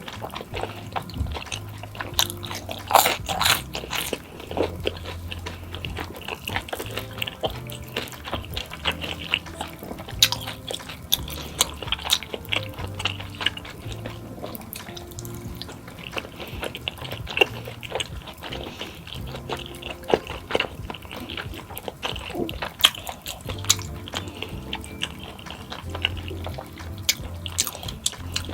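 Background music with a steady bass line, over close-up eating sounds: biting and chewing food, with many sharp clicks scattered throughout.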